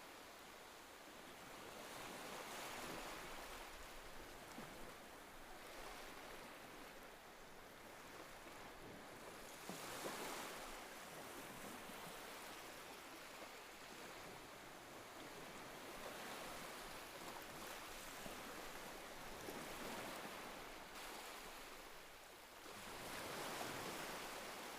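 Soft ocean surf washing on the shore, a steady hiss that swells every several seconds as waves come in.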